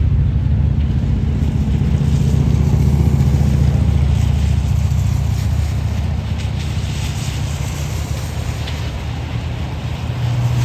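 A vehicle engine running steadily, a continuous low rumble that eases a little in the second half.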